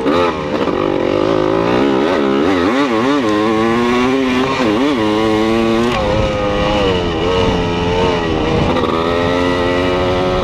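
An engine revving up and down several times in quick swings, then held at a steady speed from about six seconds in.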